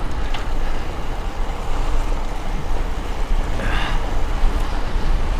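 Steady wind rumble on an action camera's microphone, with road noise, while riding a bicycle. A brief higher sound comes about two-thirds of the way through.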